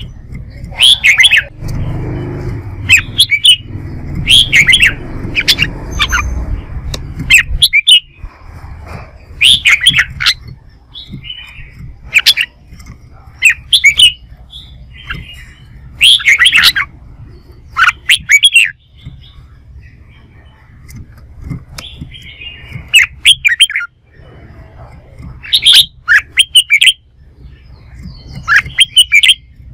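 Red-whiskered bulbul singing loud, short chirping phrases, repeated every second or two. A low rumbling noise runs under the first several seconds.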